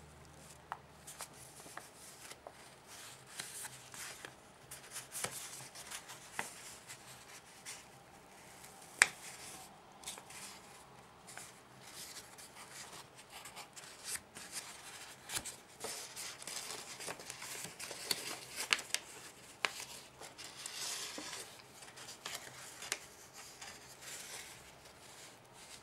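Paper being folded and creased by hand: irregular rustling and crinkling with sharp clicks as folds are pressed, one sharper click about nine seconds in.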